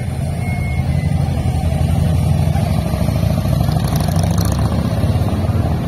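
Ferrari 488 Spider's twin-turbo V8 running at low revs as the car rolls slowly past, a deep, steady engine note that grows a little louder about a second in.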